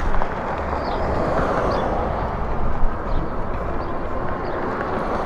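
Steady wind and road rush while riding an e-bike along a street, with the rumble of wind on the microphone and traffic noise.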